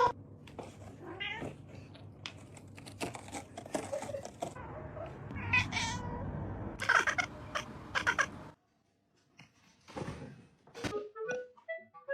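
Domestic cat meowing several times, with scattered knocks and clicks. The sound drops out about two-thirds of the way through, and short chirpy tones and clicks follow near the end.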